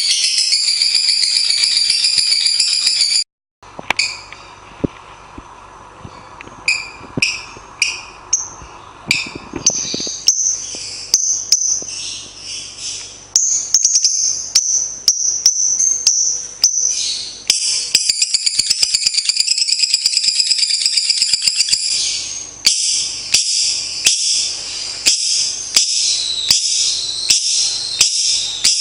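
Lovebird song: long, rapid, high-pitched chattering trills with sharp ticks running through them. It breaks off briefly about three seconds in and builds up again from about ten seconds.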